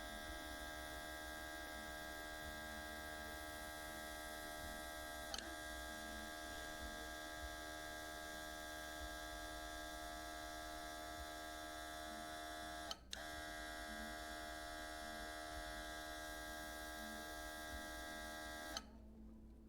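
Small compressor motor of a cordless airbrush kit running with a steady hum. It cuts out for a moment about thirteen seconds in and stops shortly before the end.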